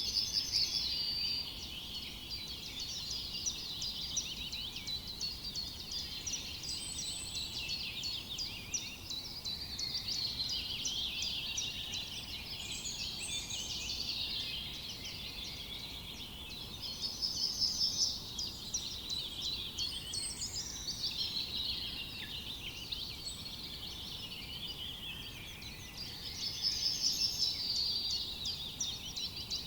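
Forest birds singing in a dense, overlapping chorus of high chirps and trills. A louder rapid trilling phrase comes at the start, again about halfway through, and again near the end.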